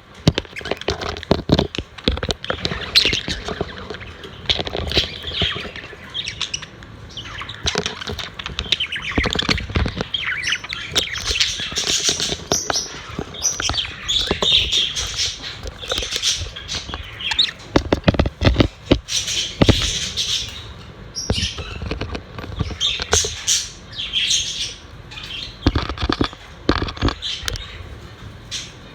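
A room of pet budgerigars chirping and chattering continuously, mixed with many sharp clicks and taps.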